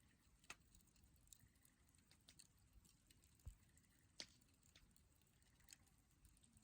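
Wood campfire crackling faintly, with scattered small pops and snaps every second or so and one duller knock midway.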